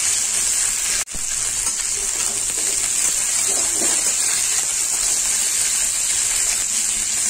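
Moringa drumstick pods and potato pieces sizzling steadily in hot oil in a kadhai over a high flame, with a brief break about a second in.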